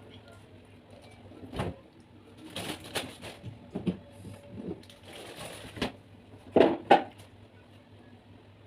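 Close-up eating sounds of large prawns being chewed and crunched, in separate bursts with two loud ones in quick succession near the end.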